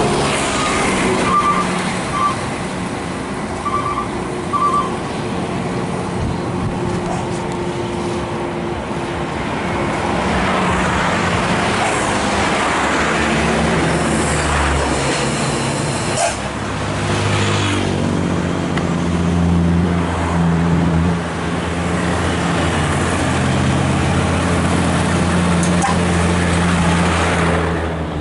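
Heavy road traffic: trucks and buses passing close by with engine and tyre noise. A few short high beeps sound in the first five seconds, and in the last third a big diesel engine runs at low revs.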